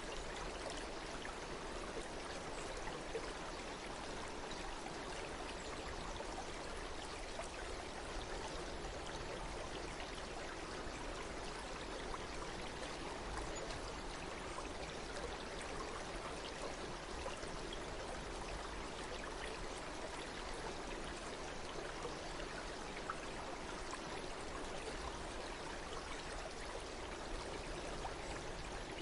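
Running water flowing steadily, an even, unbroken rushing sound.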